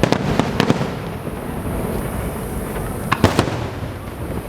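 Aerial fireworks bursting: a few sharp bangs in the first second and another cluster a little after three seconds, over a continuous rumble of more distant bursts.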